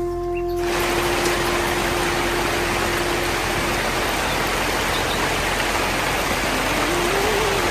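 Heavy, steady rain hiss that sets in under a second in. A held musical note, likely from a flute, carries over and fades out after about three seconds. A faint wavering tone enters near the end.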